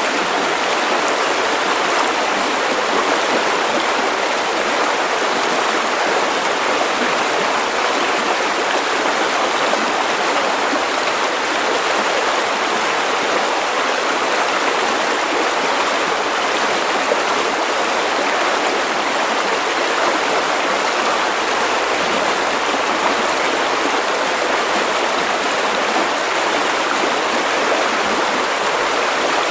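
River water running over stones, a steady, even rushing.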